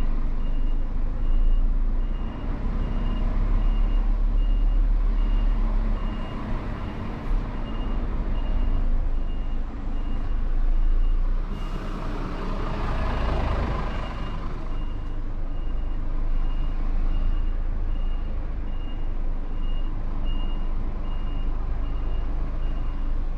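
Lorry reversing alarm beeping at a steady even pace over the low running of the truck's engine. About twelve seconds in a brief rush of hiss swells up and fades.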